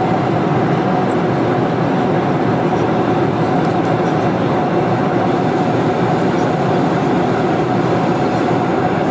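Steady cabin noise of a Boeing 747-400 airliner in cruise: an even rush of engine and airflow noise with a faint steady hum, unchanging throughout.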